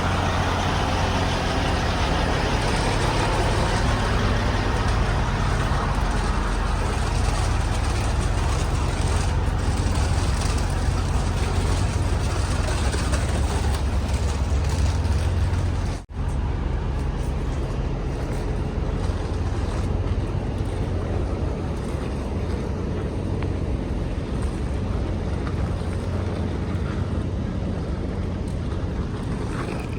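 Heavy truck's diesel engine running steadily with a deep, constant low rumble. It breaks off for an instant about halfway through and carries on slightly quieter.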